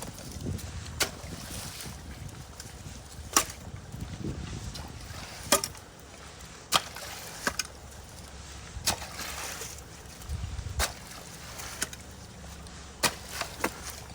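Water sloshing and trickling in a ditch clogged with leaves and sticks as the debris is pulled out by hand. Repeated sharp clicks and snaps are scattered through it.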